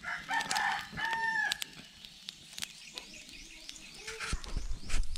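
A bird calls once with a held, pitched cry in the first second and a half, followed by scattered faint clicks.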